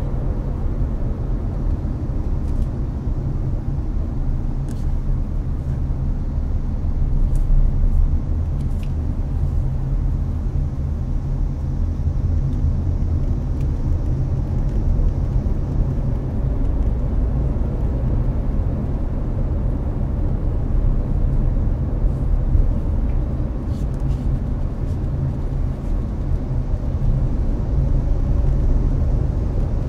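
Hyundai Avante (Elantra) cruising on an expressway, heard from inside the cabin: a steady low road and tyre rumble mixed with air-conditioner fan noise, with a few faint clicks.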